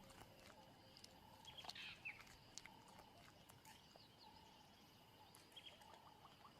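Faint outdoor ambience of the bush: scattered short bird chirps and whistles over a low hush, with a few small clicks.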